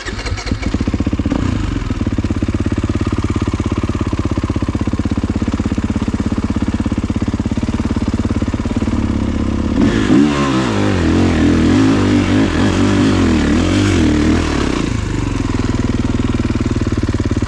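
Kawasaki KX450 single-cylinder four-stroke dirt bike engine running steadily at low revs, then revved up and down with rising and falling pitch for about four seconds around ten seconds in, before settling back to a steady run.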